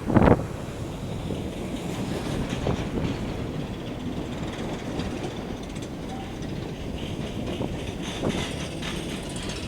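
Train cars rolling past on the rails, a steady rumble with wheels clicking over rail joints. A brief loud rush of noise comes right at the start.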